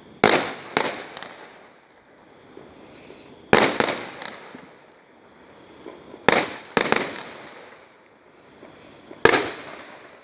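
A 100-shot fireworks cake firing its aerial shells: sharp bangs about every three seconds, often two in quick succession, each trailing off in a rolling echo.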